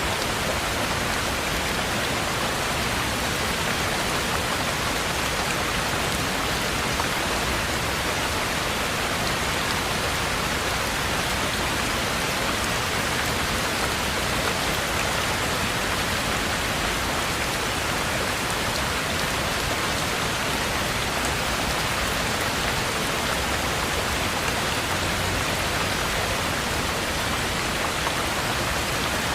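Heavy rain falling steadily, an even hiss of many drops with no change in level.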